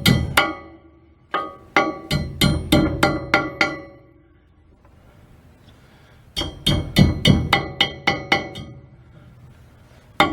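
Hammer striking metal in quick runs of taps, about four a second, each ringing with a clear pitch. Three runs separated by pauses, then one single strike near the end.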